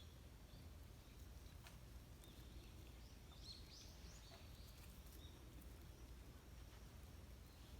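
Faint wild bird chirping: a quick run of high chirps about three and a half seconds in, and a single chirp a second later, over a steady low background hum.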